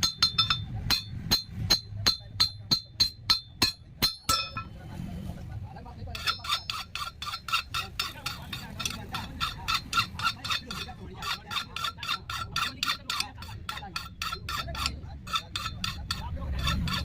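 Hand hammer striking steel rod on an anvil in a steady run of ringing blows, about three a second, with a pause of about two seconds after four seconds in before the hammering resumes.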